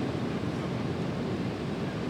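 Ocean surf breaking and washing on a beach, a steady rush with no single wave standing out.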